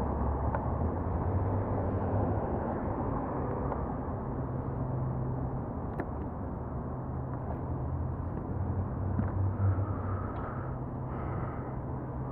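BMW F900R parallel-twin motorcycle engine running at steady speed under heavy wind rush on the rider's microphone, with a constant low hum.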